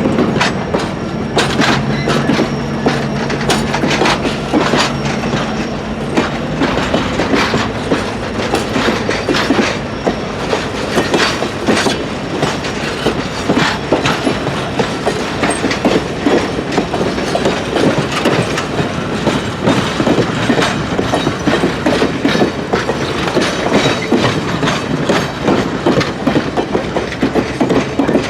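A train rolling past: the Fairbanks-Morse H-12-44 locomotive's opposed-piston diesel engine runs for the first six seconds or so and then fades. After that, the cars' wheels clatter steadily over the rail joints.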